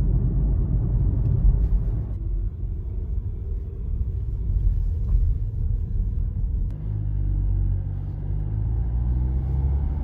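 A car driving: a steady low rumble of engine and road noise, with a steadier low engine note setting in about two-thirds of the way through.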